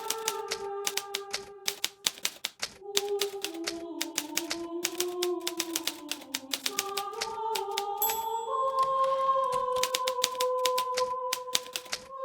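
Hermes Baby portable manual typewriter being typed on, keys striking in quick irregular runs with a brief pause about two seconds in. Soft background music with a slow melody plays underneath.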